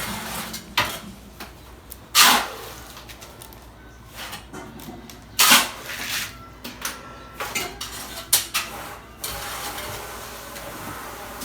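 Scattered hard knocks and clinks of bricklaying work, with two loud strikes at about two seconds and five and a half seconds and smaller taps after them. A steady hiss comes in near the end.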